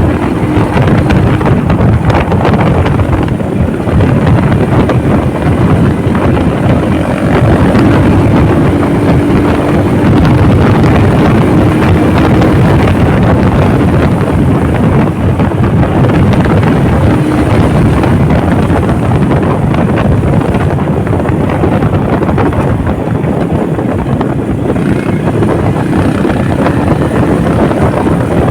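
A Honda motorcycle on the move: heavy wind rushing over the microphone, with the engine's steady drone underneath, its pitch drifting a little with speed.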